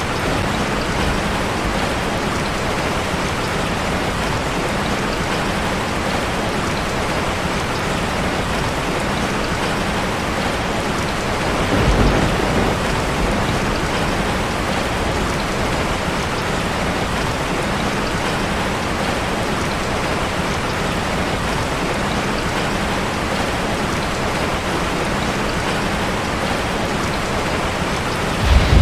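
Steady rain drumming on a metal roof, with a brief low rumble of thunder about twelve seconds in.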